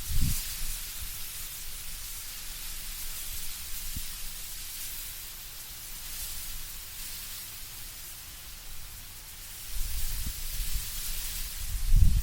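Wind in autumn trees, leaves rustling as a steady hiss, with low rumbling gusts of wind just after the start and again from about ten seconds in, strongest near the end.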